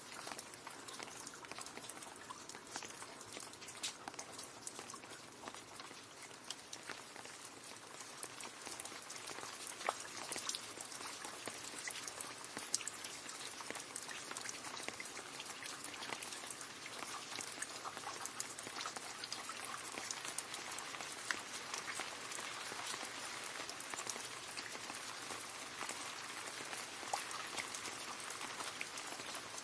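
Rain falling into a puddle: a steady patter with many small, irregular drop splashes and an occasional louder plink.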